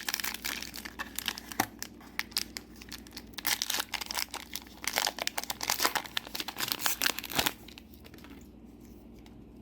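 A trading-card booster pack's foil wrapper being torn open and crinkled, a dense run of crackles that dies down about seven and a half seconds in.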